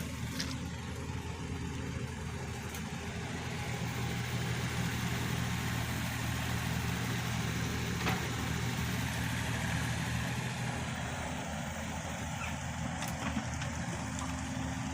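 Kubota KX91-3 mini excavator's diesel engine running steadily, getting a little heavier for several seconds in the middle.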